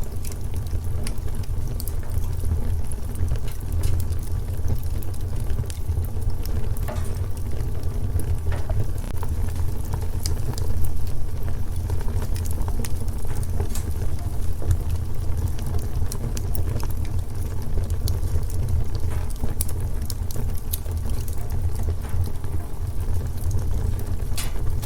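Wood fire in a fireplace crackling, with many scattered sharp pops over a steady low rumble.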